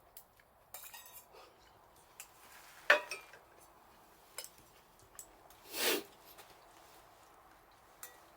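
Cookware and utensils clinking now and then in light, scattered knocks. There is one sharper knock about three seconds in and a longer rustle around six seconds.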